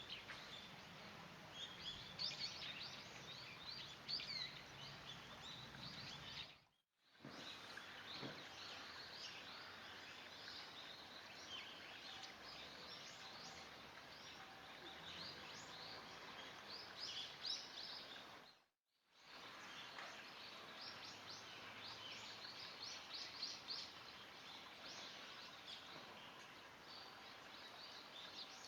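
Small birds chirping: many short, high calls coming thick and fast over a faint outdoor background. The sound drops out completely twice, briefly, at edits.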